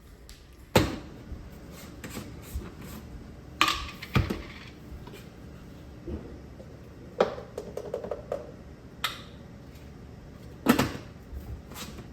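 A series of sharp knocks and clicks at irregular intervals, about six loud ones among smaller taps, as of objects being handled and set down.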